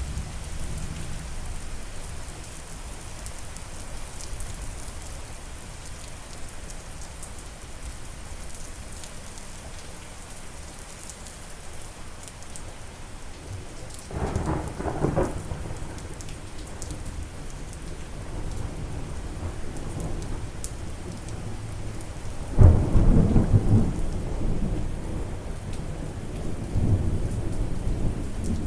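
Steady rain falling, with thunder rumbling twice: a first roll about halfway through, then a louder, longer one a few seconds later that keeps rumbling on toward the end.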